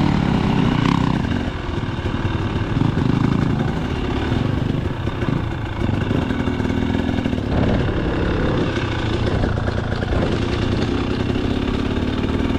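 Two-stroke engine of a KTM 300 XC dirt bike running, with the throttle opening and easing off as the bike rides along.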